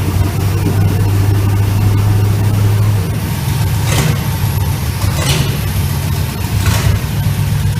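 Car engine idling with a steady low hum that shifts slightly about three seconds in, and a few brief hissing bursts over it.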